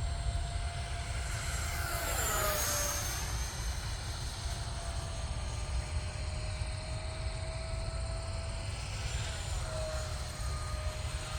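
FMS F-16 Thunderbirds V2 electric ducted-fan RC jet flying passes overhead: its thin fan whine drops in pitch as it goes by about two seconds in and again near the end, over a steady low rumble of wind on the microphone.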